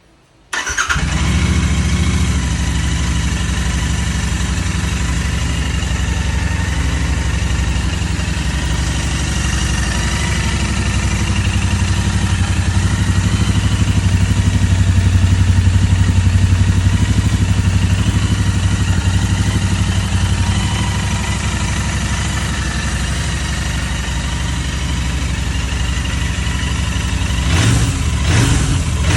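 Royal Enfield Interceptor 650 parallel-twin engine running with its stock exhaust removed: it starts about half a second in and settles into a steady, loud idle that swells a little in the middle. Near the end it is given a few short blips of the throttle.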